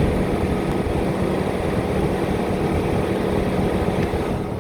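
BMW E39 running stationary with the A/C on and its electric cooling fan running: a steady whir over the engine's low hum, easing off slightly near the end.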